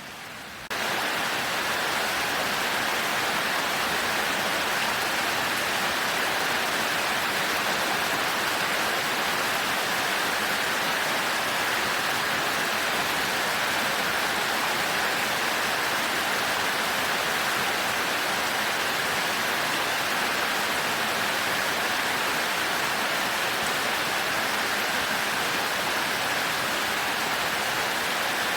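Heavy rain falling in a dense, steady hiss, which jumps abruptly louder just under a second in and then holds even.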